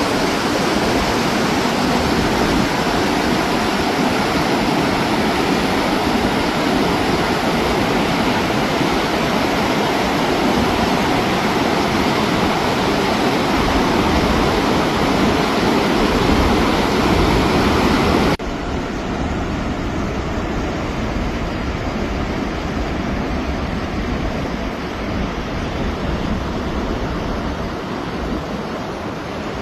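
Steady, loud rushing of water. About 18 seconds in the sound changes abruptly to a quieter, duller rush.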